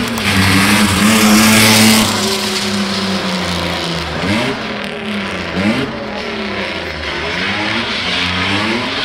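Mini hatchback's engine held at high revs with tyres squealing for the first two seconds, then revved up and down again and again as the car drifts in circles on tarmac.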